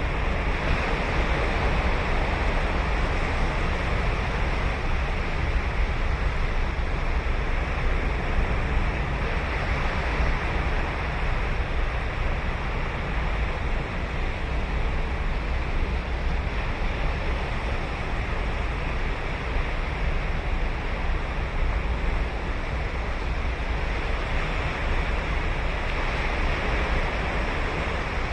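Ocean surf: waves breaking and washing onto the beach in a steady, continuous wash, with no single break standing out.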